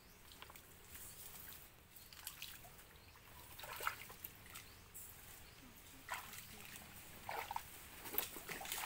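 Shallow water sloshing and trickling, with scattered small splashes.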